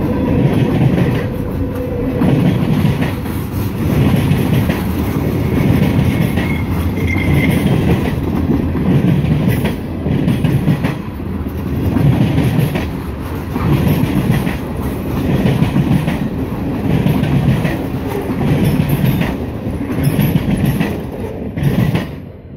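Freight train cars, covered hoppers and boxcars, rolling past with a steady rumble and a regular clickety-clack as their wheels cross rail joints. The noise drops away suddenly near the end as the last car passes.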